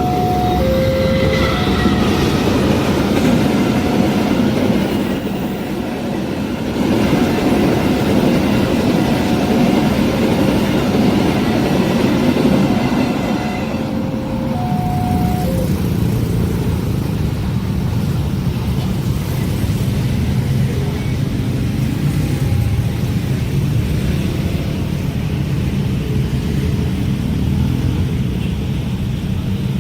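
A train passing a level crossing, its rumble and wheel noise running steadily. A repeated two-note electronic warning tone sounds over it until about halfway, typical of an Indonesian level-crossing alarm.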